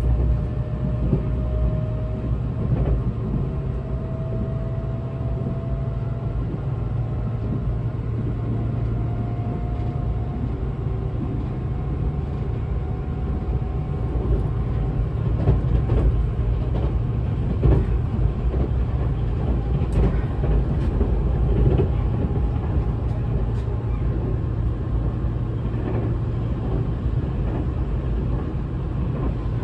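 Running sound inside a Tobu 200 series express train car: a steady rumble of wheels on rail, with a faint whine from the DC traction motors that rises in pitch as the train gathers speed. Over the middle stretch the wheels knock and click several times over rail joints and points.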